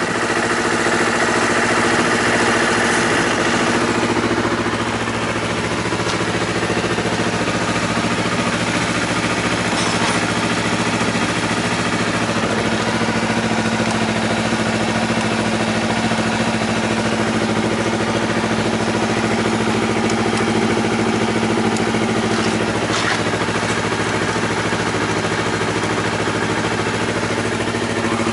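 Honda CBR250RR (MC51) 249 cc parallel-twin engine idling steadily through an aftermarket full exhaust system.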